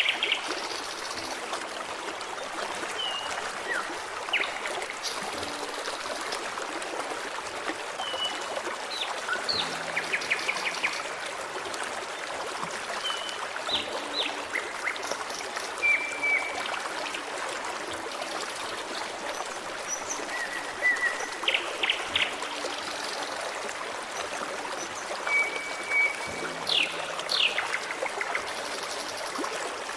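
A forest stream running steadily, its water rushing and trickling without a break. Small songbirds call over it in short chirps and brief whistled notes, a few every couple of seconds.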